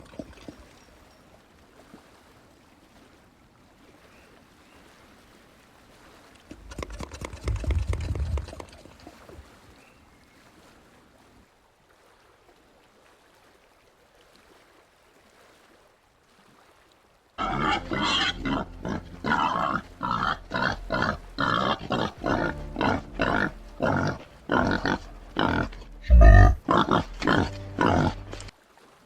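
White-lipped peccary grunting: after a mostly quiet stretch with one short burst about seven seconds in, a long run of loud repeated grunts comes at about two a second, with one loud low thump near the end.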